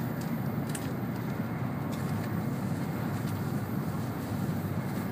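N700 series Shinkansen train running at speed, heard from inside the passenger cabin: a steady low rumble with a few faint ticks.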